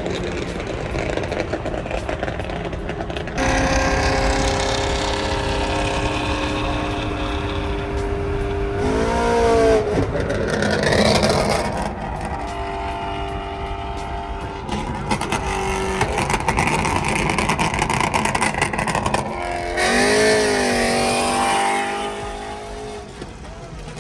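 Car engines running loudly and revving, the pitch swinging up and down twice, once about ten seconds in and again near twenty seconds.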